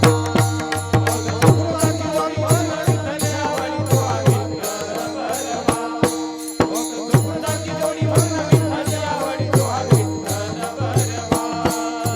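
Devotional kirtan music: a hand drum playing a steady beat of deep strokes that drop in pitch, with small cymbals striking along and held keyboard-like tones underneath.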